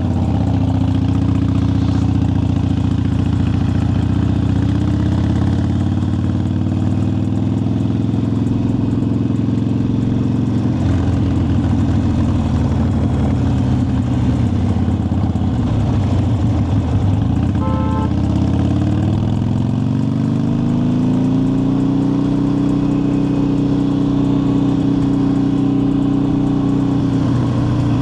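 Harley-Davidson V-twin motorcycle engine running on the road: its pitch drops as the bike slows, then rises as it accelerates and holds steady. A short beep sounds once, about two-thirds of the way in.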